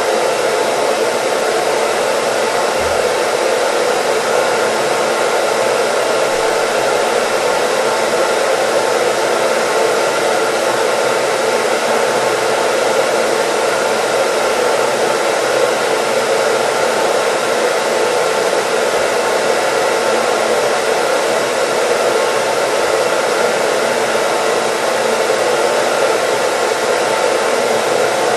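Hair dryer running continuously at a steady speed: an even, unchanging rushing of air with a faint motor whine, played as white noise.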